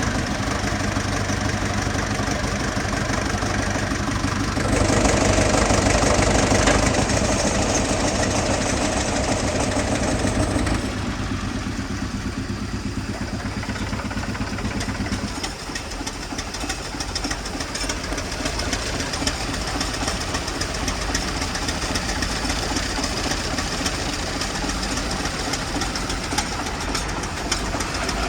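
Old air compressor and its engine running with a steady, rapid knocking beat. A louder hissing rush joins from about five seconds in and stops at about eleven seconds.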